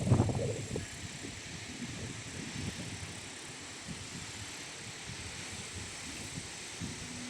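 Strong wind gusting and buffeting the microphone with an uneven low rumble, over a steady hiss. The strongest gust comes right at the start and then eases.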